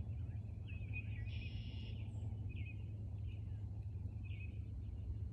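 Outdoor ambience: small birds chirping on and off, with one short buzzy call about a second in, over a steady low rumble.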